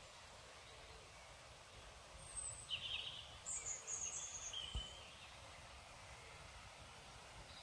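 Small songbirds giving a few short, high chirps and calls, clustered in the middle, over a faint low rumble of outdoor ambience.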